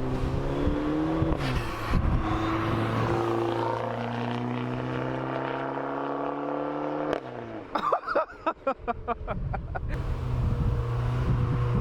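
Straight-piped exhaust of a Dodge Dart 1.4 turbo four-cylinder, with resonator and muffler removed, running loud with a droning note that shifts in pitch. About seven seconds in, the note drops away and a quick run of clicks follows before the drone returns.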